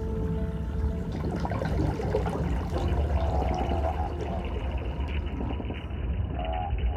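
Underwater hydrophone sound: a constant crackling, frying sound of snapping shrimp over a low rumble. Short runs of rapid, repeated croaking pulses come about three seconds in and again near the end: the 'quaqua' calls of a fish whose species is still unknown.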